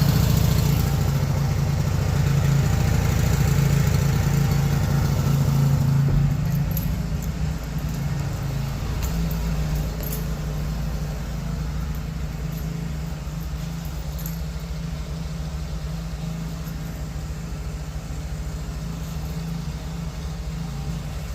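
Portable generator engine running steadily with an even hum, louder for the first several seconds and then a little quieter.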